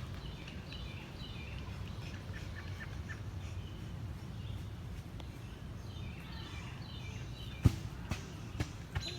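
Small birds chirping in short, quick notes over a steady low rumble. One sharp knock about three-quarters of the way through, followed by a few smaller clicks.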